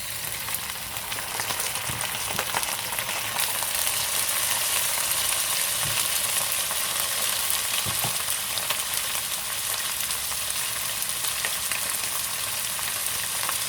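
Chicken pieces sizzling in hot oil with onions fried golden brown. The sizzle jumps up and swells over the first few seconds as the chicken goes in, then holds steady, with a few clicks of a spoon stirring the pan.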